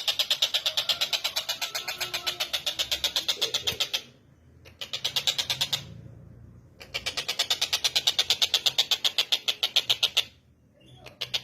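Tengkek buto kingfisher giving its rapid chattering call, about eight sharp notes a second. A long run stops about four seconds in, a short burst follows a second later, then another long run stops near the end before the calling starts again.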